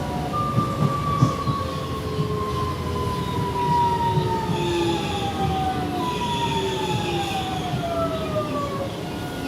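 Interior sound of a Series 8900 Alstom electric multiple-unit train running on rails: a steady rumble with a few knocks in the first second or so. Over it, the motor whine falls in pitch twice, once over about six seconds and again from about six seconds in.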